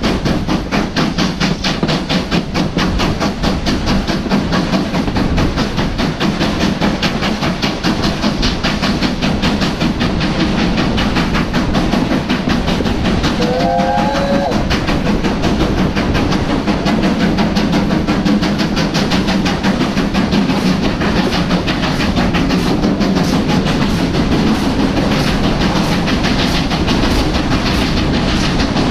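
Steam train running, with a fast, even rhythmic clatter over a steady low rumble. A short whistle-like tone sounds about halfway through.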